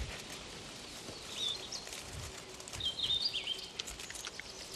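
Forest ambience with small birds chirping: a short chirp about a second and a half in, then a quicker run of chirps around three seconds in, over faint background hiss and a few soft clicks.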